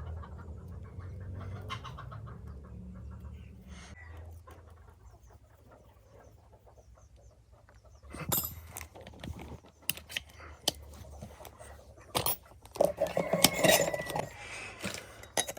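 Metal air-rifle parts being handled and fitted together: a string of sharp clicks and knocks starting about halfway, then a louder scraping rub near the end.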